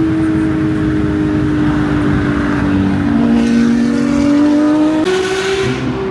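Porsche 992 GT3's naturally aspirated flat-six running under way with a strong, steady engine note that slowly sags in pitch. About five seconds in, it jumps sharply higher, with a brief hiss.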